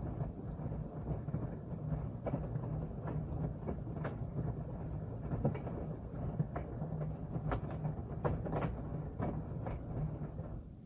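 Washing machine running a wash cycle: the drum turning with a steady low motor hum and many irregular knocks and clicks, stopping near the end.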